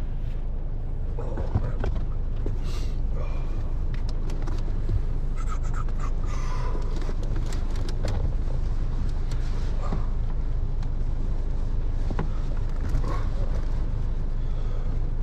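Heavy rain on a car, a steady low rumble heard from inside the cabin, with small knocks, rustling and panting breaths as someone struggles to pull on hiking boots in the seat.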